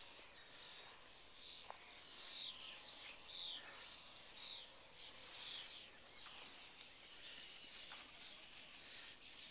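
Faint birdsong: short chirping phrases repeating about once a second over a steady outdoor hiss.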